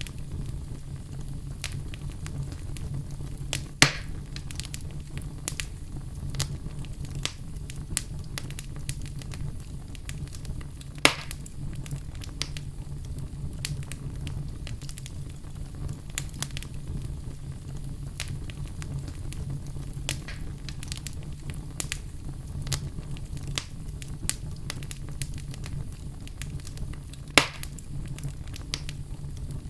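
Wood fire burning in a fireplace: a steady low rumble of flame with frequent irregular crackles and three louder pops scattered through it.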